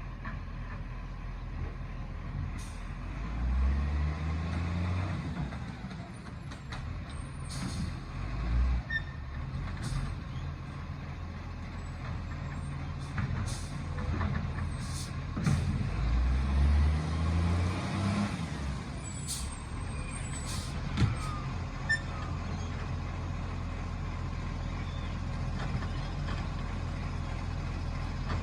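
Garbage truck's diesel engine idling and revving up twice, with short air hisses and knocks in between.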